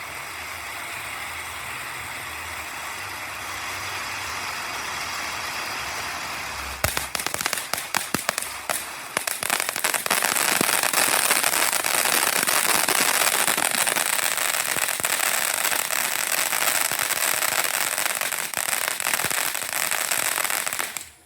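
Phantom Fireworks Phoenix Finale ground fountain burning with a steady hiss. About seven seconds in, a string of sharp crackles starts. It builds into a louder, dense crackling spray that cuts off suddenly as the fountain burns out.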